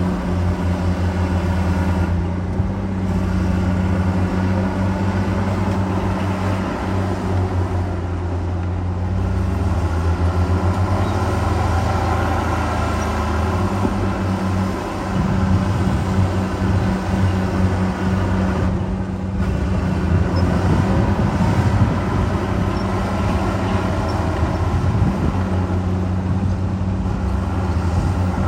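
Heavy diesel construction machinery engine running steadily under load, with its pitch shifting partway through.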